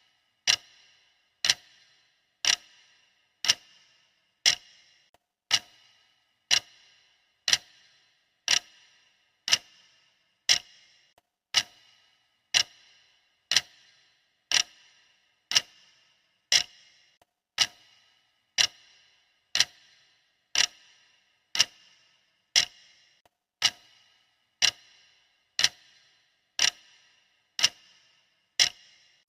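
Clock ticking steadily, one sharp tick a second, each with a brief metallic ring.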